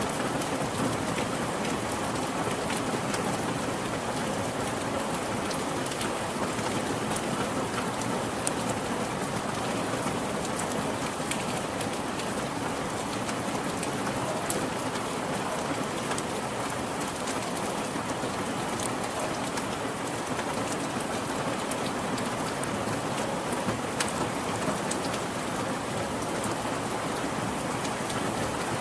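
Steady rain falling, an even hiss with scattered individual drops ticking sharply on a surface, a few louder drips standing out.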